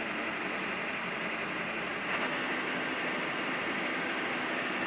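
A heavy vehicle's engine running steadily, getting slightly louder about two seconds in.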